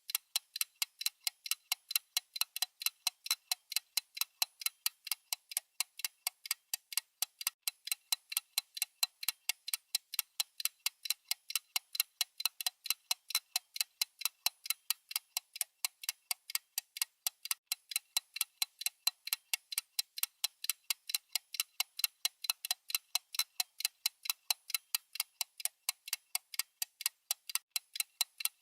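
Countdown timer's ticking sound effect: light, evenly spaced clock ticks, about four a second, high and crisp with no low end.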